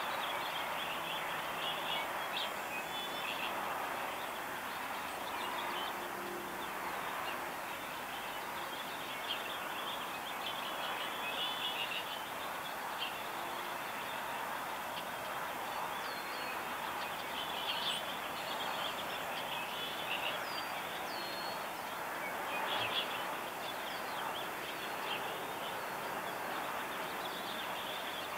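Small birds chirping in short scattered bursts, over a steady background hiss.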